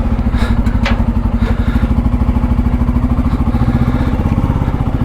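Motorcycle engine idling steadily with an even, rapid pulse, with two light clicks in the first second.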